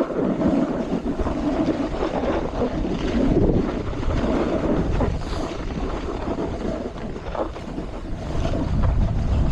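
Snowboard sliding and scraping over snow at speed, a steady rushing noise, with wind buffeting the camera microphone.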